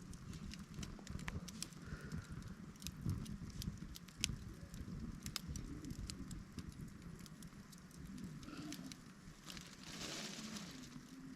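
Wood campfire burning: scattered crackles and sharp pops over a low rumble of flame, with a brief hiss about ten seconds in.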